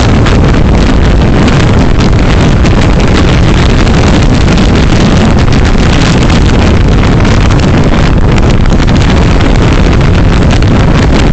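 Steady, loud road and wind noise of a car on the move, picked up by a dashcam's microphone.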